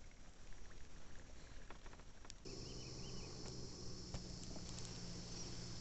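Small scattered clicks and patter, then about two and a half seconds in a sudden change to a steady high insect drone over a low hum, with a brief warbling call just after the change.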